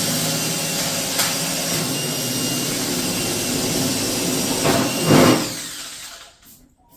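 Power drill running steadily as it bores holes through the sheet-metal patch panel and truck bedside. The sound swells briefly about five seconds in, then winds down and stops near the end.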